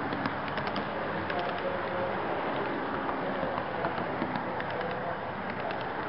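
HO scale model train running on its track, picked up from a car in the train: a steady rolling rumble of small wheels on rail with scattered light clicks as they cross rail joints, and a faint mechanical hum.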